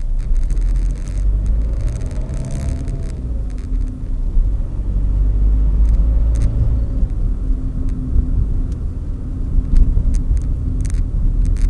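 Renault Clio's 1.5 dCi diesel engine running steadily with a low rumble, with a few light clicks scattered through.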